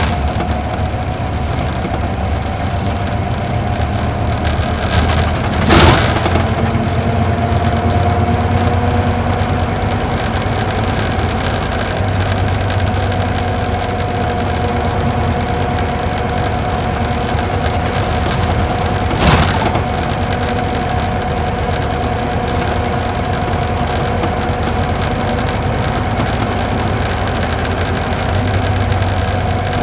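Isuzu Gala coach's V-type diesel engine pulling steadily up a mountain grade, heard from inside the bus, with a steady drone whose pitch rises a little and then holds. Two sharp knocks, the first the loudest, come about six seconds in and again near twenty seconds.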